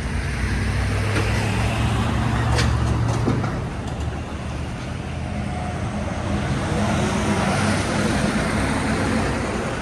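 Motor vehicles passing on the road, a steady low rumble that swells twice.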